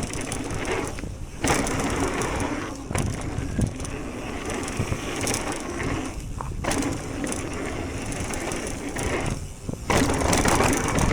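E-mountain bike riding down a dirt trail: tyres crunching and rattling over the rough ground, with wind rushing over the microphone. The noise eases briefly a few times.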